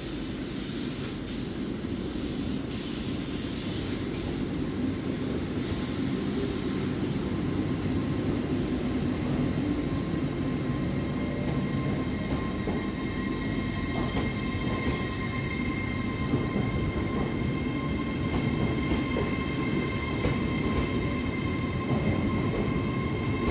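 LNER Azuma high-speed train pulling out of the platform. Its low rumble grows louder as the carriages roll past, with a few light clicks from the wheels. A steady high whine joins about halfway through.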